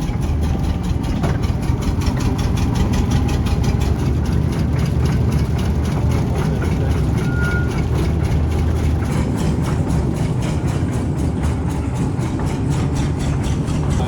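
An engine idling with a steady, rapid, even beat.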